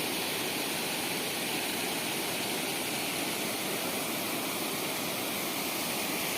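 Water rushing steadily over the overflow weir of a dam reservoir that is full and overflowing after the rains.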